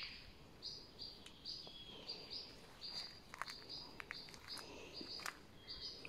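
A songbird singing a long series of short, high notes, repeated about twice a second, with a few faint clicks in the middle.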